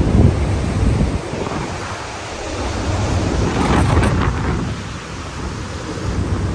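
Strong tornado winds rushing and buffeting the microphone in gusts, swelling just after the start and again about four seconds in.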